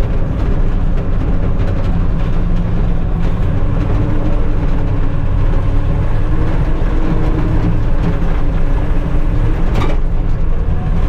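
Tucker Sno-Cat driving under load: a loud, steady engine with a continuous rattle from the running gear, its pitch drifting up and down a little. There is a single sharp knock near the end.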